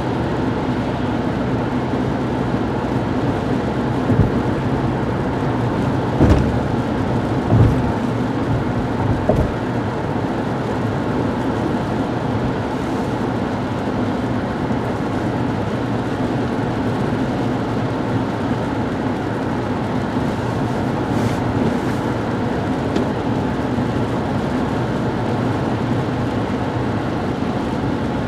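Steady road and engine noise heard from inside a car moving at highway speed on a snowy, wet interstate, with a few low thumps within the first ten seconds.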